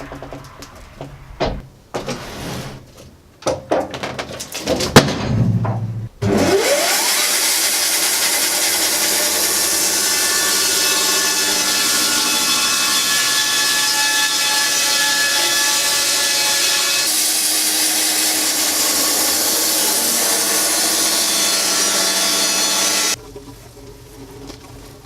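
Scattered knocks and clatter, then a Wood-Mizer LT10 band sawmill starts with a rising pitch about six seconds in. It runs steadily, sawing through a pine log, and cuts off abruptly near the end.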